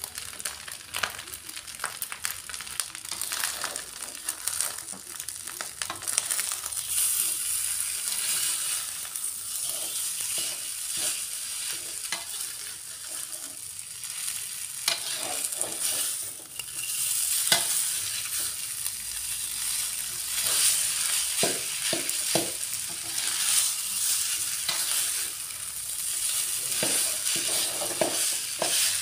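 Fried rice sizzling in a metal wok, with a steady hiss, while a metal spatula stirs and tosses it, scraping and clicking irregularly against the pan.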